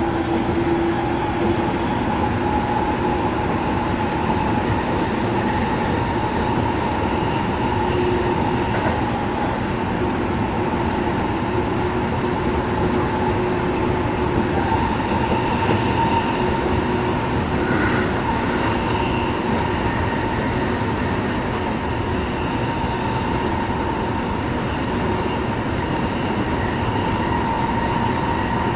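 Seibu Railway electric commuter train running along the line, heard from inside the driver's cab: a steady rumble of wheels on the rails with a few steady humming tones over it.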